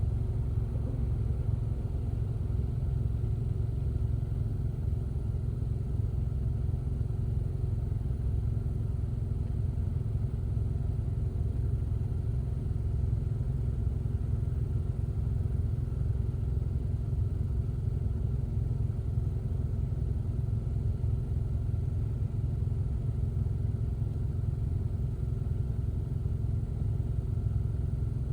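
Steady low rumble of a car driving, with no change in pace.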